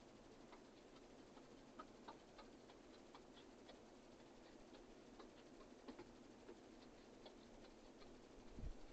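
Birds pecking at a feeding station: faint, irregular beak ticks and taps on seed and feeder, with a low thump near the end.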